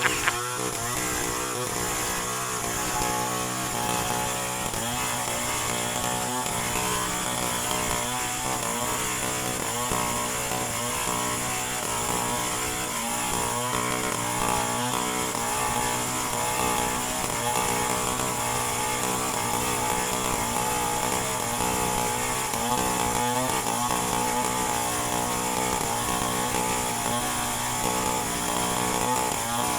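Two-stroke chainsaw engine running steadily, its pitch wavering slightly.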